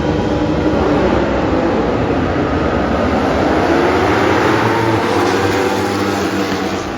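Racing motorcycle engine running hard at high revs, its pitch rising and falling over a steady rush of wind and engine noise.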